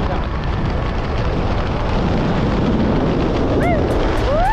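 Wind rushing hard over the microphone. Near the end a gliding tone rises and slowly falls, over a ticking beat of about four a second, as music comes in.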